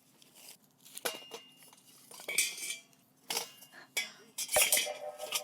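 A series of light clinks and knocks of hard objects being handled, a few with a short metallic ring.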